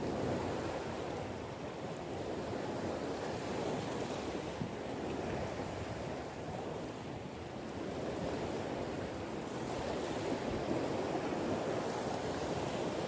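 Steady rush of wind and surf, with wind buffeting the microphone and swelling and easing slightly.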